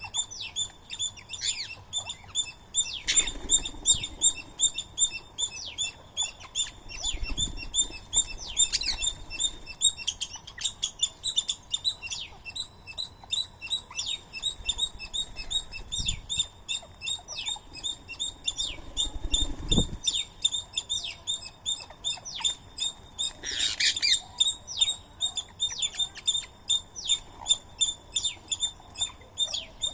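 Many birds chirping continuously in rapid short chirps, with one louder, harsher call about 24 seconds in and a few soft low thuds.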